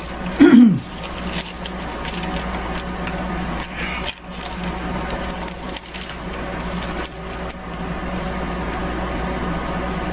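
Food dehydrator running with a steady electric hum. About half a second in, a brief louder sound falls in pitch.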